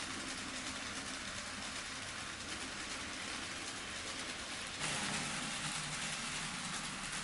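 N scale model train running on the layout's track: a steady rolling rattle of small wheels on rail with motor hum. It gets suddenly louder about five seconds in.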